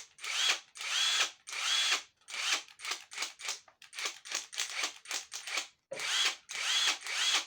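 Ingco cordless impact driver run in a series of short trigger pulls, about nine in all. Each pull gives a brief motor whine that spins up and winds down.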